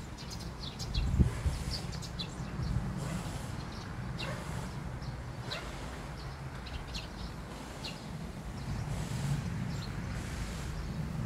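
Small birds chirping in short, scattered calls over a low wind rumble on the microphone, with a low thump about a second in.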